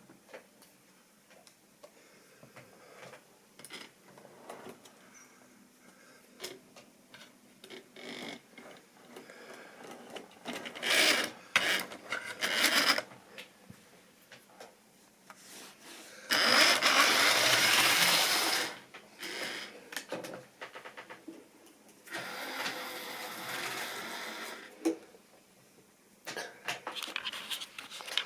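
Model railway train running on its track: scattered clicks of wheels over the rail joints, then a loud whirring rattle lasting about two seconds just past halfway, and a quieter stretch of it a few seconds later.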